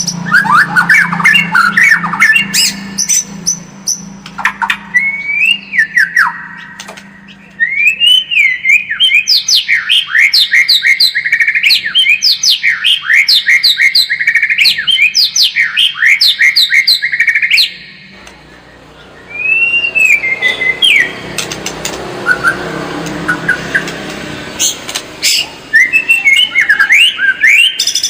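White-rumped shama (murai batu) singing a fast run of varied whistled phrases with quick upward and downward slides. The song breaks off for a moment a little past the middle, comes back as a few scattered notes, then returns in full near the end.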